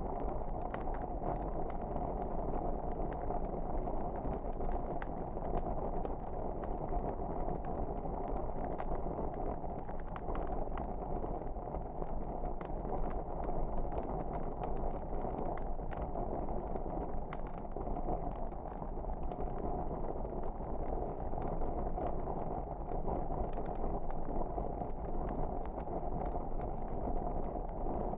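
Wood fire burning in a fireplace: a steady low rumble of flames with scattered faint crackles.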